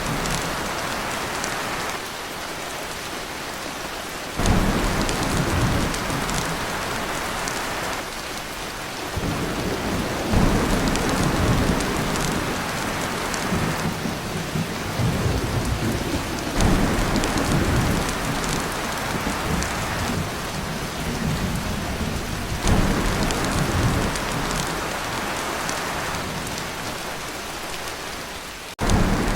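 Heavy rain drumming on a tin roof, with deep rolls of thunder rising suddenly and fading about every six seconds, five times.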